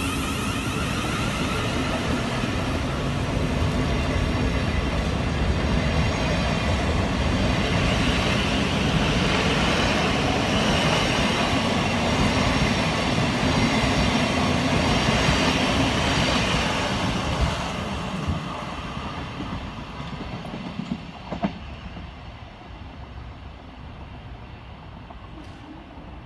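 South Western Railway electric multiple unit running past on the rails, with a steady noise of wheels on track. After about 17 seconds it fades as the train moves off, and a single click sounds near the end.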